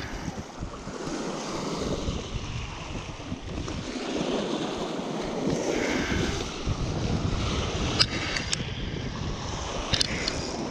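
Wind buffeting the microphone over the wash of choppy river water, with a few sharp clicks about 8 and 10 seconds in.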